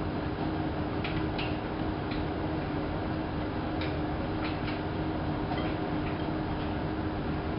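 Hanseatic HWM814A3D front-loading washing machine running mid-cycle: a steady motor and drum hum with one constant tone, and light clicks scattered at irregular intervals.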